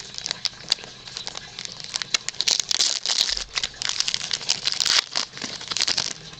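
A trading-card pack's foil wrapper being torn open and crinkled by hand, with dense irregular crackling that is loudest about two and a half and five seconds in.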